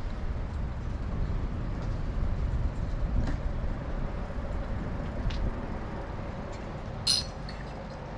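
Steady low rumble of wind and road noise heard while riding a bicycle through city streets, with a few faint ticks. About seven seconds in comes one short, high metallic clink.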